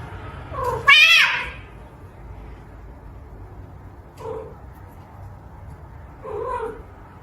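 A domestic cat meowing several times, the loudest about a second in with a wavering pitch, then shorter meows about three and five seconds later.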